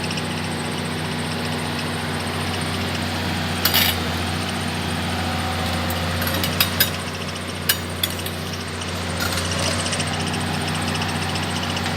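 A heavy vehicle's engine running steadily, with a handful of sharp metal clanks about a third of the way in and again just past the middle.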